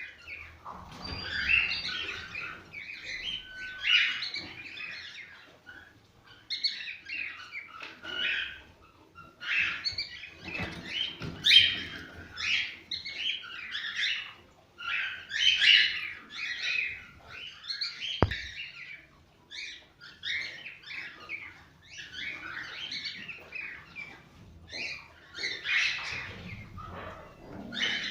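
Cockatiels chirping and warbling in bursts of quick, varied notes with short pauses between.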